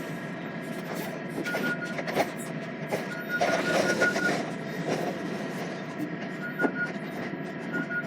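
A vehicle running, with a steady drone and a few knocks and rattles. Over it, a high electronic beep repeats in short runs of quick pulses.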